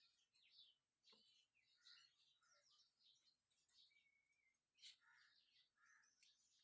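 Faint birds chirping and twittering: many short, high calls, some sliding in pitch, with one short held whistle about four seconds in, over near silence.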